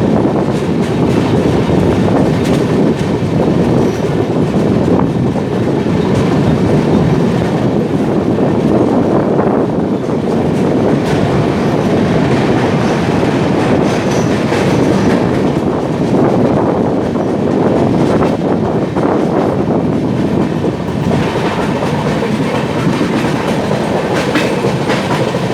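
Coaches of an express passenger train running through a station at speed without stopping: a steady, loud rumble with the clatter of wheels over rail joints.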